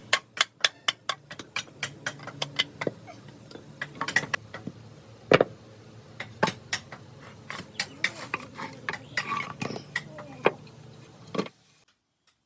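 Workshop hand-tool work: a quick run of sharp taps, then irregular knocks and clinks, with one louder knock about five seconds in. The sound cuts off abruptly near the end.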